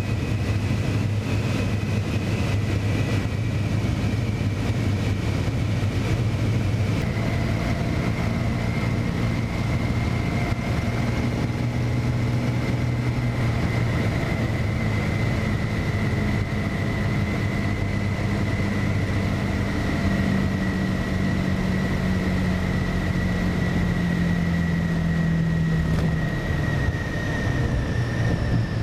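Aircraft piston engine running steadily, a continuous drone with a high whine that slowly falls in pitch.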